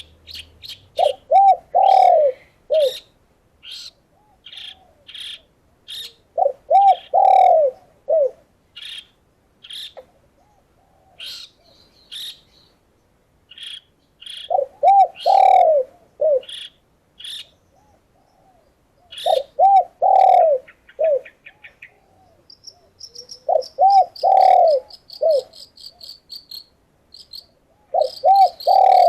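Doves cooing in phrases of a few notes, one phrase about every four to five seconds, over many short, sharp, high chirps from a small songbird. A high, rapid, insect-like trill comes in near the end.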